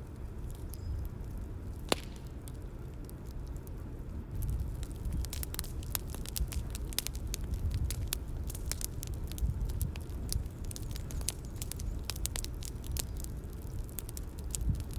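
Bonfire crackling and popping over a low steady rumble of flames, with one sharper snap about two seconds in. The pops grow denser a few seconds later.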